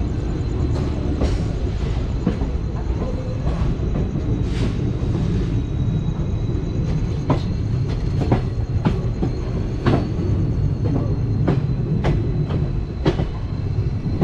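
Train coach rolling along the track: a steady low rumble with irregular sharp clicks of the wheels over rail joints and points, and a thin, steady high whine.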